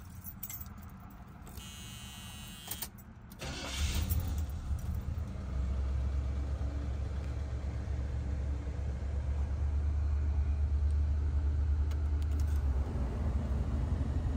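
Keys jingle, then the 1978 Cadillac Coupe DeVille's V8 cranks briefly and catches about four seconds in, settling into a steady low idle.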